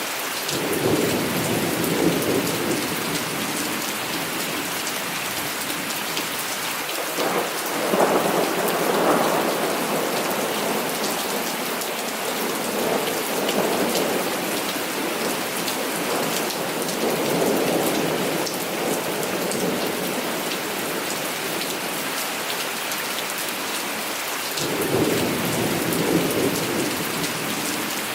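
Heavy rain falling steadily, with rolls of thunder rumbling several times over it: about a second in, again a third of the way through, and once more near the end.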